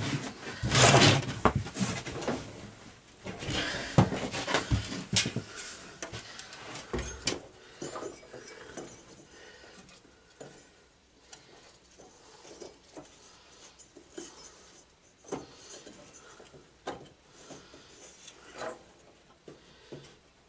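Hand work on a garden tractor's underside: metal parts clinking, knocking and rubbing as the drive belt is worked back onto its pulleys. The clatter is busiest over the first several seconds, with the loudest knocks about a second in and around four seconds, then thins to scattered light taps.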